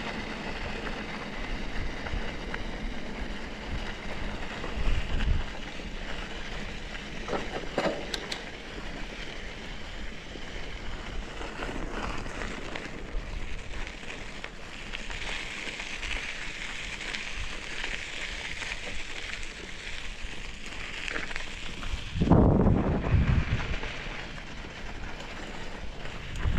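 Mountain bike riding over a dirt trail: a steady rumble of tyres and rattling with wind buffeting the microphone, and a louder gust or jolt near the end.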